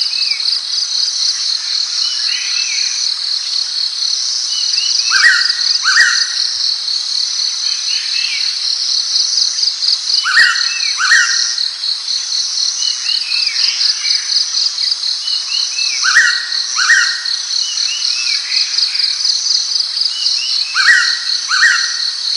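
Blue-winged pitta calling a clear two-note whistle, each note rising, repeated four times about every five seconds, over a steady fast-pulsing chorus of insects.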